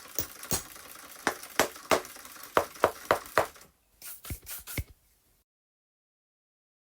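A run of sharp, irregular knocks and taps, then a short cluster of ringing clicks about four seconds in, after which the sound cuts off to dead silence.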